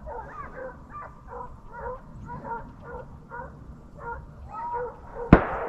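A pack of deer hounds baying steadily while running a deer, their overlapping calls coming a few times a second. Near the end, two gunshots ring out a fraction of a second apart, loud and close.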